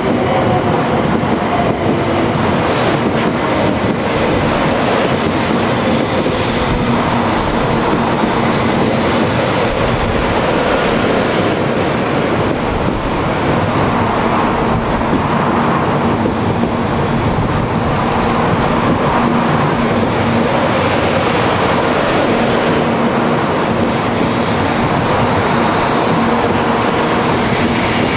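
700 Series Shinkansen cars running past at close range, a steady loud rush of wheel and air noise under a low steady hum. In the first several seconds a few tones slide down in pitch as the train slows on arrival.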